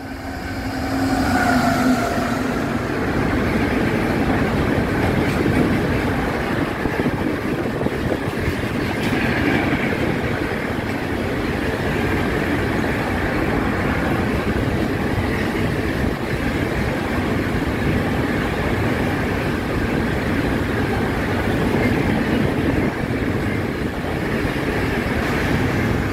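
A train passing close by on the rails with a steady rumble and clatter of wheels. It swells over the first two seconds, with a brief tone as it comes up, then holds level throughout.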